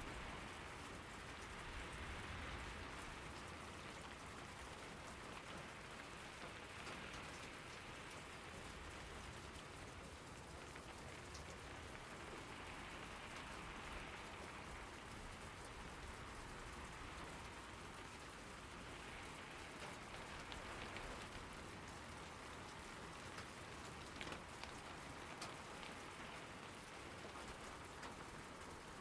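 Steady rain falling, with scattered drops ticking on hard surfaces toward the end.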